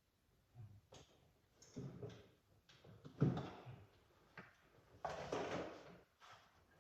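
Irregular knocks and clatters of hand tools and metal parts being handled while a power steering line is refitted, the loudest knock about three seconds in, with a longer rustling scrape around five seconds.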